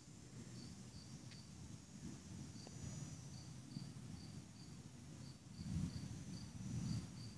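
Crickets chirping in an even rhythm, about two short high chirps a second, over a low rumble that swells up twice near the end.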